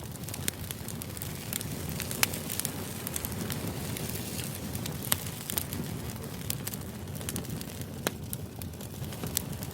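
Steady background noise track with a low even rumble and sharp, irregular crackles scattered through it, a few each second.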